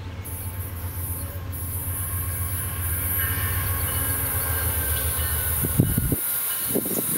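Diesel-electric locomotive of an approaching passenger train, its low engine rumble growing louder over a steady high hiss. The rumble drops away abruptly about six seconds in.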